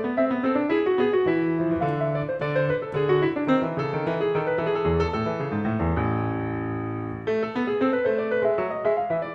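Background piano music: quick runs of notes, with one chord held for about a second near the six-second mark before the notes resume.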